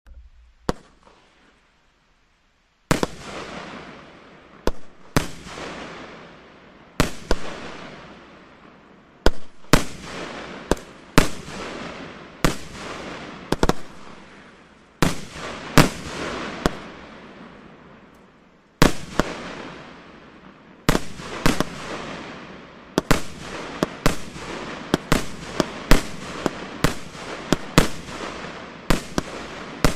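'Poseidon' fireworks battery (cake) firing: after a single small pop and a short lull, it fires shot after shot, each a sharp bang followed by a fading tail of noise. The shots come roughly every second at first and faster after about 20 seconds.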